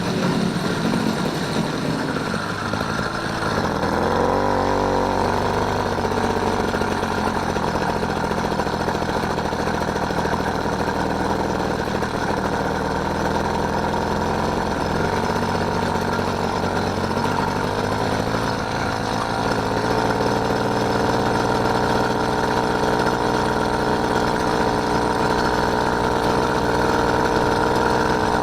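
Small engine of a motorised bicycle running steadily under way, its pitch wavering slightly now and then.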